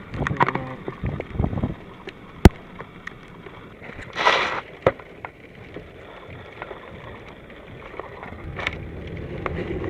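Wind rumbling and buffeting on the microphone during a tornado, with scattered taps, one sharp knock about two and a half seconds in, and a brief hiss of a gust about four seconds in.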